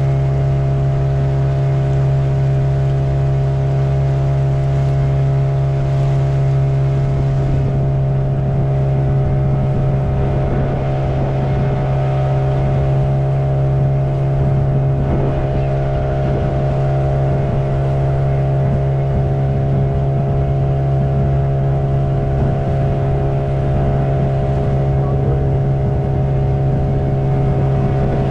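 Motorboat engine running at a steady speed, a constant low hum with no change in pitch.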